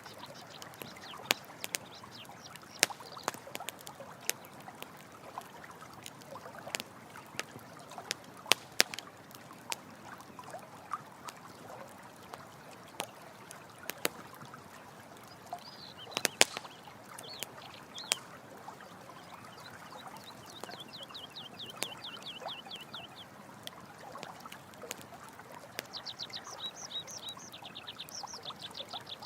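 Campfire crackling with irregular sharp pops over steadily running water. Twice in the second half, a rapid run of high, evenly repeated chirps comes in from a night animal.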